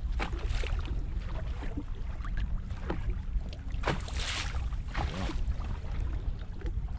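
Wind buffeting the microphone in an open fishing boat: a steady, uneven low rumble with scattered small clicks and knocks, and a brief rustle about four seconds in.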